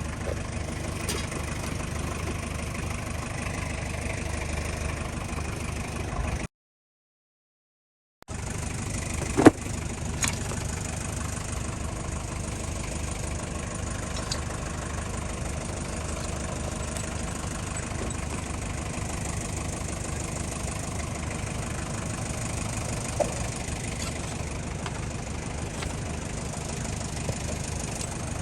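Mazda R2 four-cylinder diesel engine idling steadily. The sound drops out completely for under two seconds about six seconds in, and a couple of sharp clicks follow soon after.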